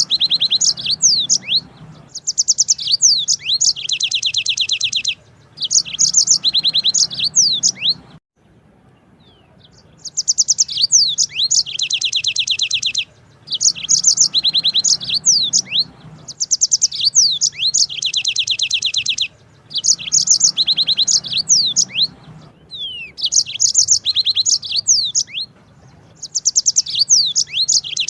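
Yellow-fronted canary (Mozambique canary) singing long rolling trills: phrases of about two seconds of very fast repeated high notes laced with quick downward-sweeping whistles, repeated with short pauses between them and one longer pause about eight seconds in.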